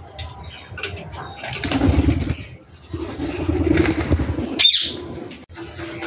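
Aviary birds calling: low cooing calls in two stretches, then a short shrill call that falls in pitch about three-quarters of the way through.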